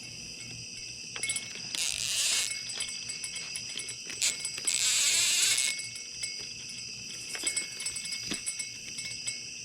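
Two bursts of rapid metallic jingling, less than a second and about a second long, about two seconds apart: a catfish rod's bite alert going off as a flathead catfish takes the cut bait.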